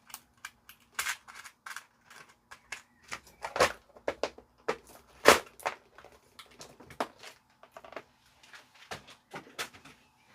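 Small parts and tools being handled on an electronics workbench: irregular light clicks and taps, with two sharper knocks about three and a half and five seconds in, over a faint steady hum.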